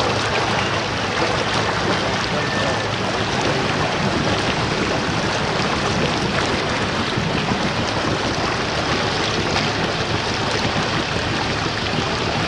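Fast-flowing floodwater rushing steadily, a continuous even rush of water with no breaks.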